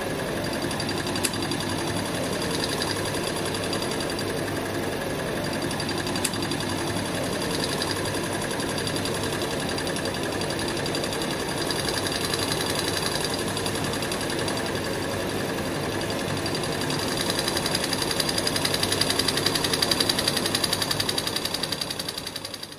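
Homemade thermoacoustic Stirling engine running steadily with a fast, even mechanical rhythm. It grows slightly louder near the end, then fades out.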